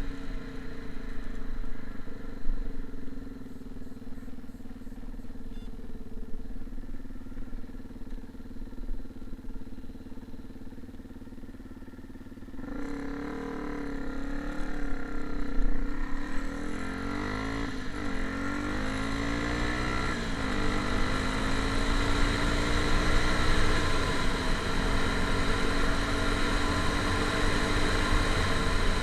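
A motor vehicle's engine running steadily; about halfway through it gets louder and its pitch rises and falls as it speeds up and slows.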